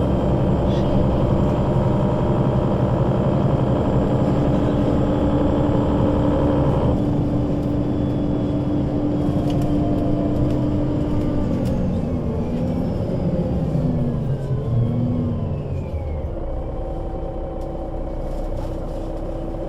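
Solaris Urbino 12 III city bus with a Voith automatic gearbox: the diesel engine pulls steadily, then drops off sharply about seven seconds in. Several gearbox whines then fall in pitch as the bus slows, settling to a steady low running sound near the end.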